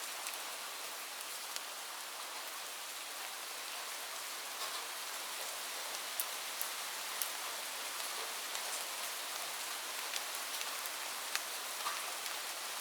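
Light rain falling steadily, an even hiss with scattered sharp ticks of individual drops striking a surface.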